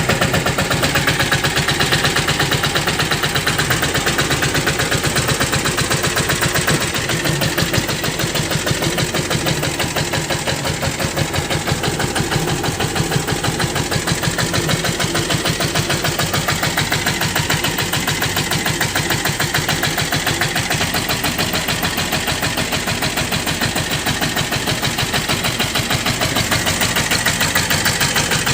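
The 10.5 HP single-cylinder diesel engine of a Sanedo mini tractor runs steadily with a rapid, even pulsing beat, easing off slightly for a few seconds partway through.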